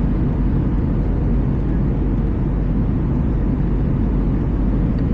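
Steady cabin noise inside an Airbus A320 airliner: engine and airflow noise, even and heavy in the low end.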